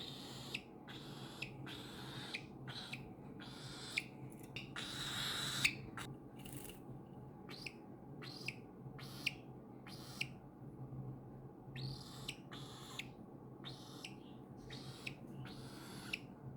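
Young cockatiel making short, repeated chirping calls, about one or two a second, with a brief pause about ten seconds in.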